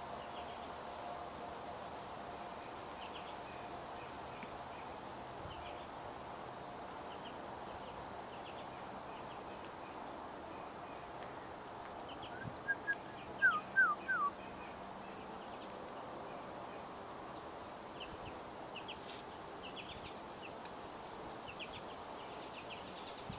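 Quiet outdoor hiss with faint, scattered high ticks, broken about halfway through by a quick run of five or six loud, short bird call notes, each falling in pitch.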